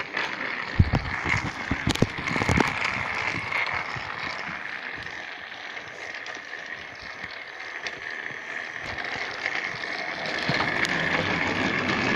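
Battery-powered toy train running along plastic track: a steady small-motor whine with rattling of the wheels and track, and a few knocks in the first few seconds. The whine grows stronger near the end.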